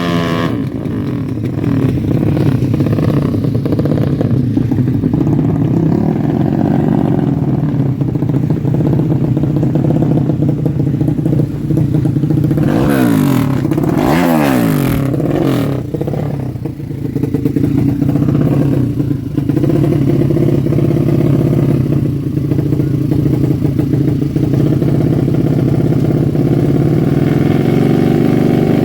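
Honda Karisma's single-cylinder four-stroke engine running steadily, with a rev rising and falling about halfway through.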